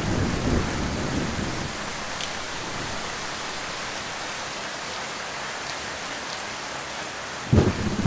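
Heavy rain falling steadily, with a low thunder rumble fading in the first second or so. A sudden loud crack of thunder breaks in near the end.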